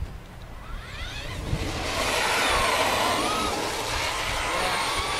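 Traxxas Stampede RC truck's electric motor whining up in pitch as the truck accelerates away about a second in, then running fast with a wavering whine over a steady hiss of tyres on the ground.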